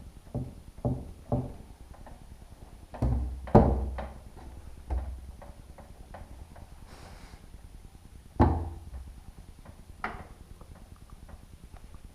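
Wooden door and frame knocking and thudding as they are handled and fitted together: a few light knocks, then heavier thuds, the loudest about three and a half seconds in.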